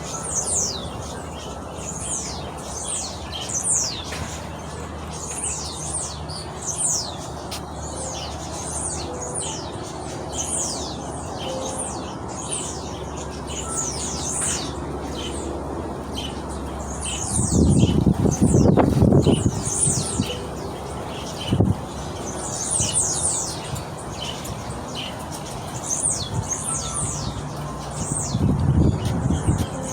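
Aviary birds chirping steadily: many short, high chirps that fall quickly in pitch, repeating several times a second. A loud low rumble cuts in for about two seconds past the middle, followed shortly by a single knock.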